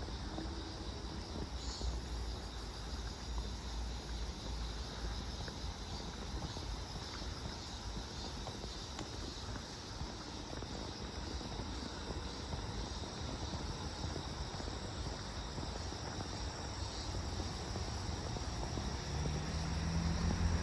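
Crickets and other late-summer insects chirring steadily in a pulsing high-pitched chorus. A low rumble sits under it for the first few seconds, and a low hum rises near the end.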